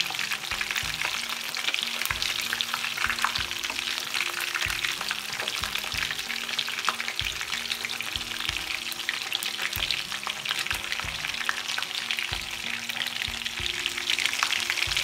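Chicken pieces frying in hot sunflower oil: a steady crackling sizzle. A spatula scrapes and taps against the pan as the pieces are turned over.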